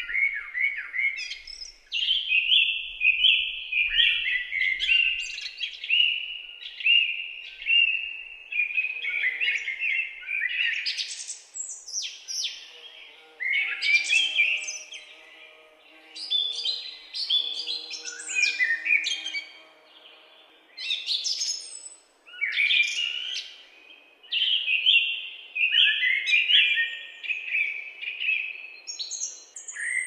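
Songbirds singing: quick, varied chirping and warbling phrases, high-pitched, coming in bursts with short pauses between them.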